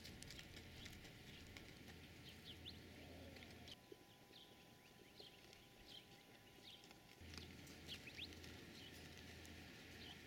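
Faint outdoor quiet with small birds chirping: many short, high chirps scattered through it.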